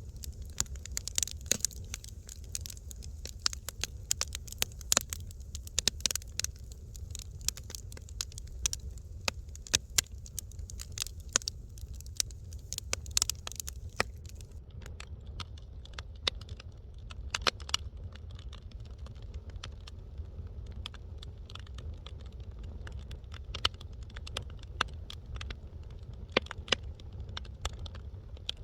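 Wood fire crackling in a fireplace: irregular sharp pops and snaps over a steady low rumble, with a faint hiss that drops away about halfway through.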